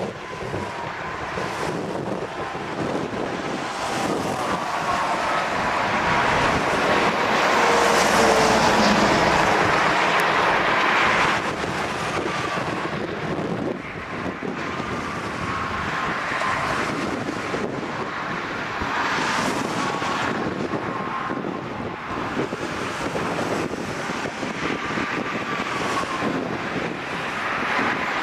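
Strong storm wind buffeting the microphone in gusts, loudest from about six to eleven seconds in, with a faint wavering tone underneath.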